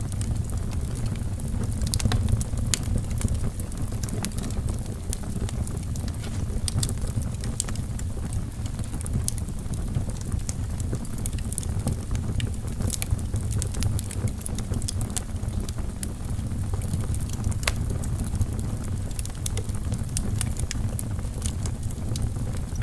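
Wood fire burning in a fireplace, crackling: irregular sharp pops and snaps from the burning logs over a steady low rumble of the flames.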